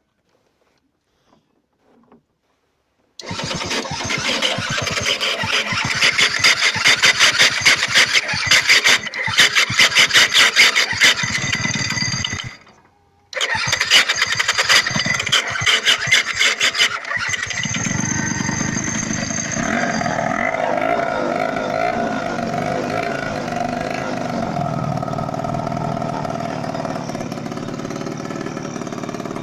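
Scooter engine being cranked over in two long tries, with a short pause between them; it catches on the second try and settles into a steady run.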